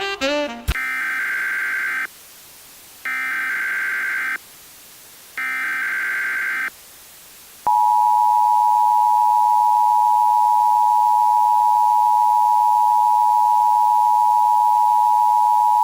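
Emergency Alert System header: three short bursts of buzzy data tones, each about a second and a half long with a second's gap between them. About eight seconds in, the loud, steady two-tone EAS attention signal starts and holds. It announces an emergency broadcast, here a tornado warning.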